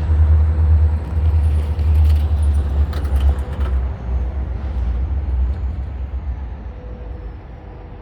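A loud, deep rumble that fades away over the last few seconds, with a few faint clicks partway through.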